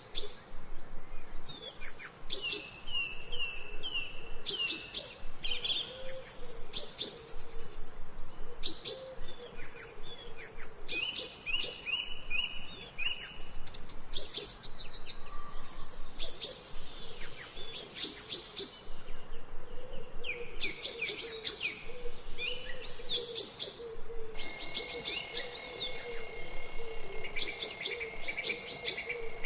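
Small birds chirping and trilling in quick, repeated high notes, an ambient birdsong track. About 24 seconds in, a steady electronic alarm tone at several pitches comes on and holds, the countdown timer's end alarm, with the birds still chirping under it.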